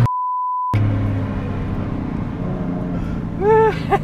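A short steady censor bleep with all other sound cut out, then the BMW F80 M3's twin-turbo straight-six running at steady revs, heard from inside the cabin. A man laughs briefly near the end.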